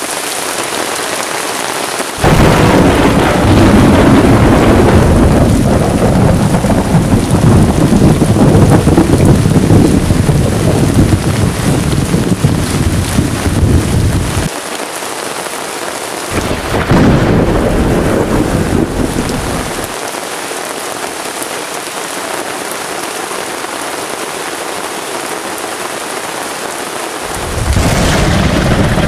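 Heavy rain falling steadily on a tarp tent and the forest around it, with thunder rumbling loudly. The first rumble breaks in suddenly about two seconds in and runs for some twelve seconds, a shorter one follows a few seconds later, and another comes near the end.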